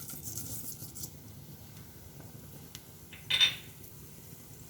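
Whole spices (mustard seeds, black pepper, coriander and fennel) tipped into a pan of gingelly oil, with a brief hissing rustle in the first second, then a single sharp metal clink of a utensil on the pan a little over three seconds in.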